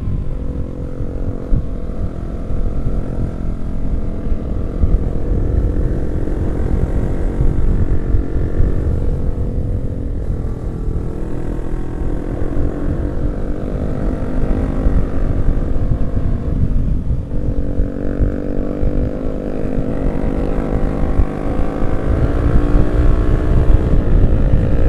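Yamaha R15 V3 motorcycle engine running under way, its pitch rising and falling with the throttle, with a dip about seventeen seconds in followed by a climb in revs. Steady wind rumble from riding speed lies underneath.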